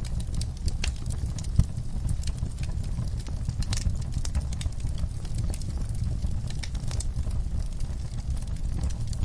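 Wood fire burning in a fireplace: a steady low rumble of the flames with frequent sharp crackles and pops, one louder pop about one and a half seconds in.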